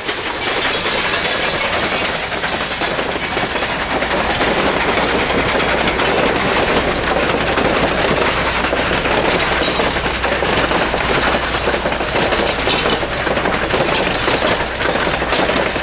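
Durango & Silverton narrow-gauge passenger cars rolling past, a steady rumble and rattle of steel wheels on the rails, with some sharp clicks over the rail joints in the later part.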